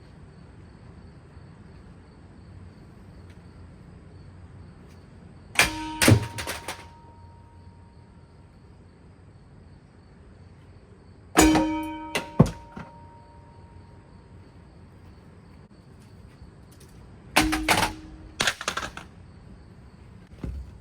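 A spinning Hampton Bay Waterton ceiling fan being struck: three bursts of clattering knocks with short metallic ringing, about six seconds apart, and one smaller knock near the end.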